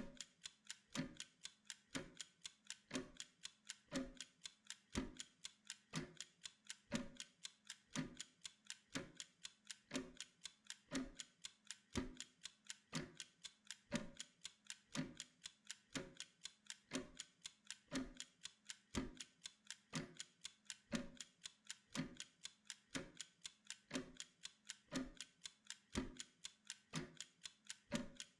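Mechanical kitchen timer ticking steadily while it counts down a 25-minute work interval, at about two even ticks a second.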